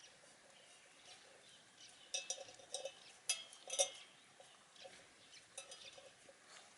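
Shiba Inu chewing and crunching chicken wing tips: a run of sharp crunches about two to four seconds in, then lighter chewing near the end.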